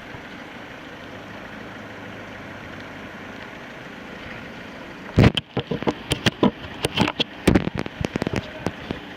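Heavy rain: a steady hiss, then from about five seconds in a rapid, irregular run of loud pops and knocks close on the microphone.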